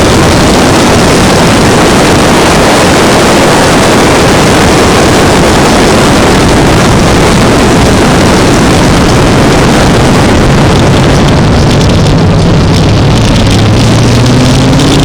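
Racing sport truck engines running hard on track, loud enough to overload the microphone into a dense, distorted roar. In the last few seconds the noise thins and a steadier, lower engine drone comes through.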